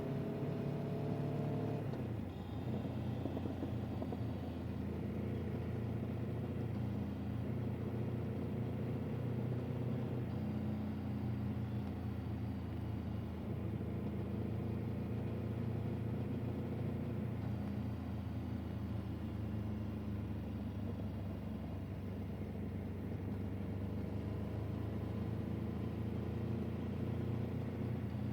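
A vehicle engine running steadily under way. Its pitch drops about two seconds in and climbs slowly near the end.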